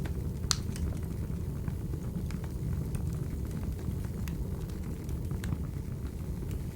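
Wood fire crackling: a steady low rumble of burning logs with scattered sharp pops, the loudest about half a second in.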